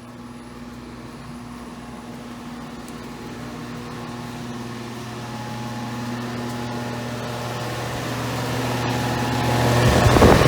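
Outdoor air conditioner condensing unit running: a steady compressor hum with a fan's rushing air. It grows louder throughout and is loudest near the end.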